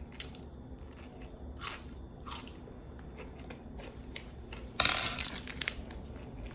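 Close-up eating sounds: a person chewing food with small wet mouth clicks. About five seconds in, a louder burst of rustling noise lasts about a second.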